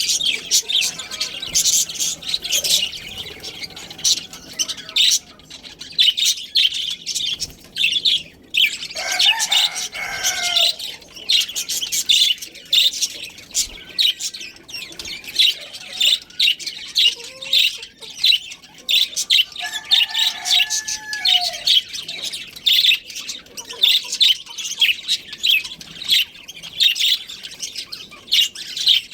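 A flock of budgerigars chattering: a dense, continuous stream of quick high chirps and warbles, with a few lower, harsher calls standing out about a third and two thirds of the way through.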